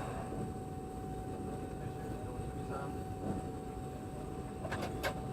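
Steady low rumble of a Boeing 717's cabin on the ground, with a constant whine over it. A few sharp clicks come near the end.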